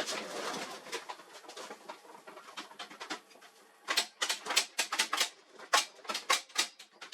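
A brief rustle, then about three seconds in a quick, irregular run of sharp clicks and clacks, as of hard parts or tools being handled.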